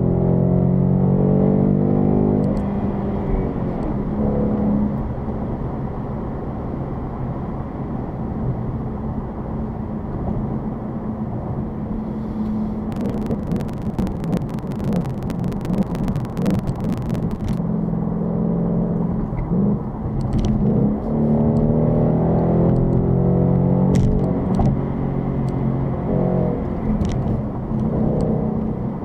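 Ford Mustang GT's V8 engine driving through the streets, pulling harder near the start and again through the second half and easing off in between. A run of rapid crackling clicks comes in the middle while the engine is eased off.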